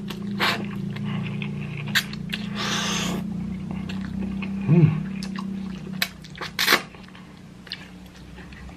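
Close-up eating sounds of spicy instant ramen: slurping noodles and chewing, with a few sharp clicks of utensils against the bowl. A steady low hum underneath stops about six seconds in.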